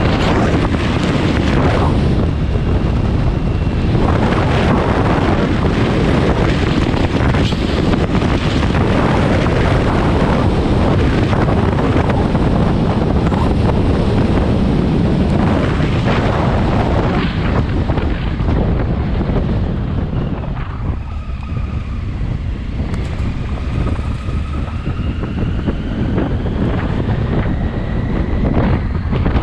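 Heavy wind buffeting the microphone while riding a Triumph Tiger 800 motorcycle. About two-thirds of the way through the noise eases briefly, then a faint whine from the bike rises steadily in pitch as it picks up speed.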